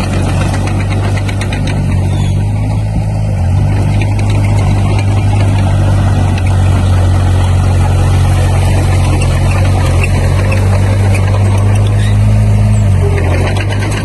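Diesel engine of heavy construction machinery running steadily, its low hum shifting slightly in pitch about three and a half seconds in and again near the end, with a light clatter on top.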